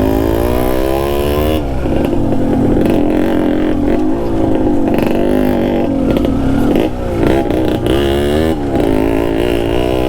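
Yamaha RX two-stroke single-cylinder motorcycle engine under changing throttle, its pitch repeatedly climbing and falling back, with several sudden drops.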